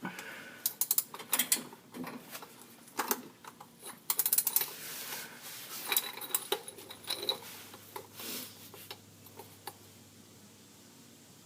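Socket wrench ratchet clicking, with metal tool clanks, in irregular bursts as it is worked against a stuck oil drain plug; the clicking dies away about nine seconds in.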